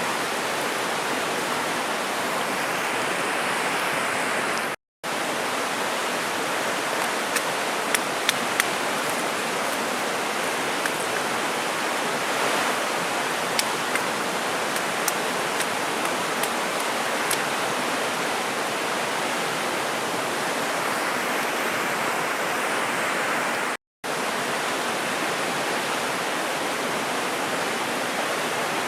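Steady rush of a mountain river flowing over its bed, with a scatter of small sharp clicks through the middle stretch and two very brief drop-outs in the sound.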